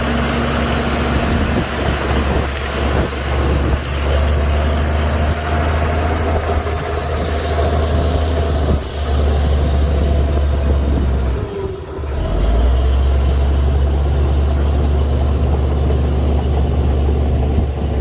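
Heavy diesel earthmoving machinery running under load, a steady low engine drone with a faint high whine that rises and falls. About twelve seconds in the engine dips briefly, then comes back up.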